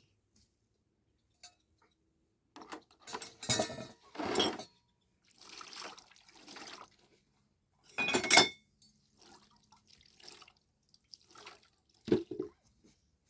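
Dishes and kitchenware being handled: scattered clatter and clinks, the loudest a short ringing clink about eight seconds in.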